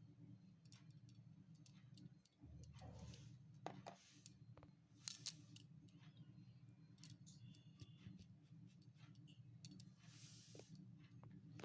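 Faint, scattered clicks and short scrapes of small utensils being handled in miniature cooking, over a low steady hum.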